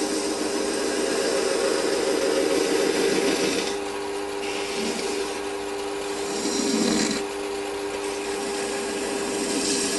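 Small metal lathe running with a steady motor and gear hum while a tool cuts or scrapes the spinning chimney piece, giving a continuous rasping hiss. The rasp eases about four seconds in and swells briefly around seven seconds.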